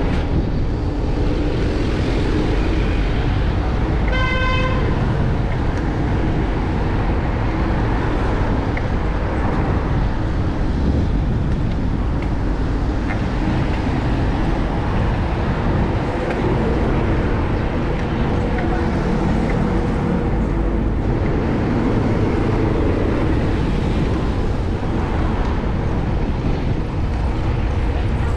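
Steady city street traffic, with a vehicle horn tooting once, briefly, about four seconds in.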